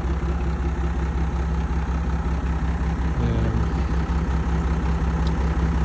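Heavy diesel engine idling steadily, a low, even, pulsing rumble.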